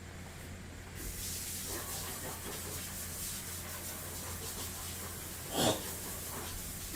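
A person breathing hard over a steady hiss, with one short, louder breath about five and a half seconds in, after cinnamon has clogged his throat.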